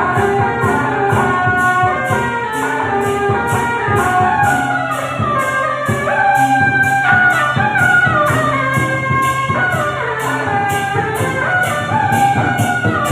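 Procession music: a wind-instrument melody with sliding, bending notes over a steady beat of about two strokes a second.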